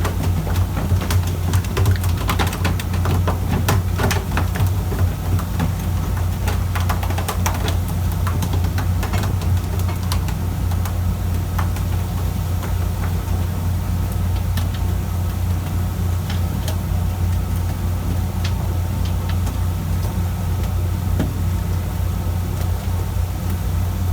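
A fishing boat's diesel engine running steadily with a deep, constant hum, with scattered clicks and knocks on board during the first half.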